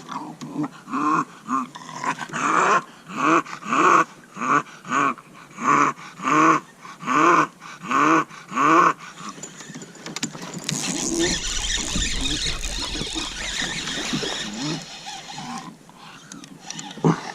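Bulldog vocalizing in a run of short, rising yelps, about two a second, for the first half. After that comes a few seconds of rushing noise with a low rumble.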